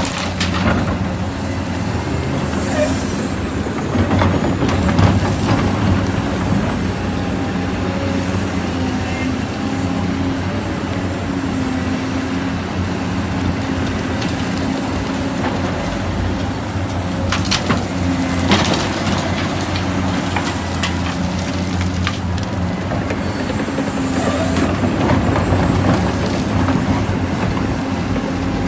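Small electric motors and gearboxes of radio-controlled construction models whirring steadily, their pitch stepping up and down as the controls change, with a few short knocks and scrapes, the loudest around a third of the way in and again about two-thirds of the way through.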